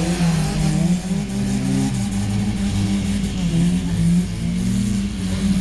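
Engines of several vehicles revving and running under load as they drive off, the engine notes rising and falling.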